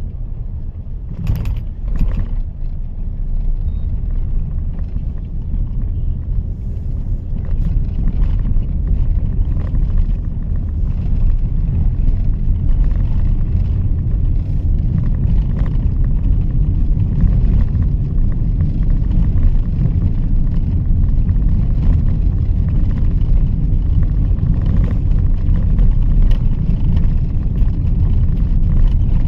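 Mahindra XUV 3XO's 1.2-litre three-cylinder turbo-petrol engine and tyres as the car drives along, a steady low rumble. Two short clicks come about a second in and again a second later.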